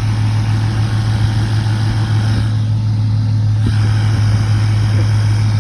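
A steady low machine hum running without a break under a hiss of background noise, like an idling engine or a running motor.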